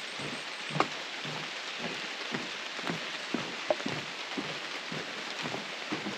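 Rain falling steadily, with irregular sharp taps of individual drops.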